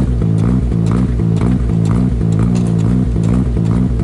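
Suzuki Jimny engine free-revving while parked, the throttle pumped in quick blips so its pitch rises and falls about twice a second.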